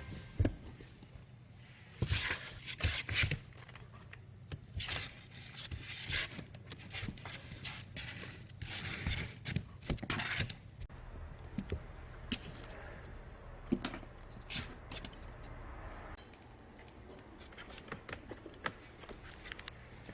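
Scattered scraping and rustling noises with a few soft knocks, over a low steady hum.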